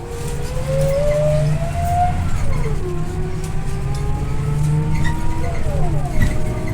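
Scania OmniLink I city bus accelerating: a whine from the drivetrain climbs in pitch, drops at a gear change about two seconds in, climbs again and drops at a second shift near the end, over a steady low engine drone.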